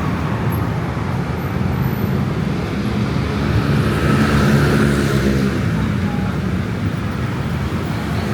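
Steady road traffic noise from a busy city street, with one engine louder as a vehicle passes close by about halfway through.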